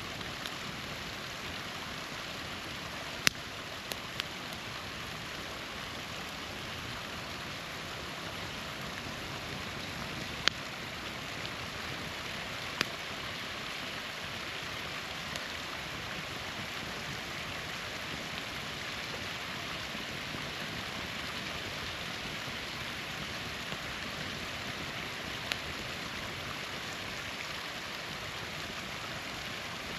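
Small waterfall rushing steadily, with a few sharp pops and crackles from a campfire, the loudest about three and ten seconds in.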